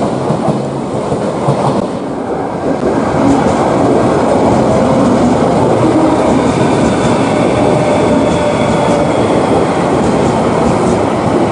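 Train running along the track with a continuous clickety-clack rattle of wheels on rail. From about five seconds in, faint steady whining tones join the rattle.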